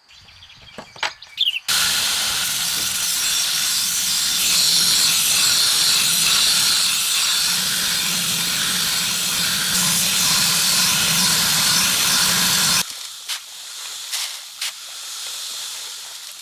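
A loud, steady hiss in a metalworking workshop, starting suddenly about two seconds in and cutting off abruptly about eleven seconds later, with a low steady hum underneath.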